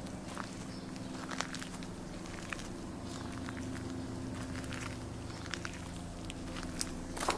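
Footsteps on a bush path, with scattered, irregular crunches and clicks over a steady low hum of road traffic.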